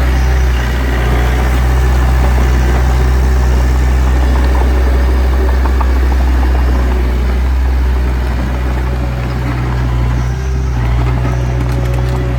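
Diesel engine of heavy earth-moving equipment running steadily with a deep, even drone.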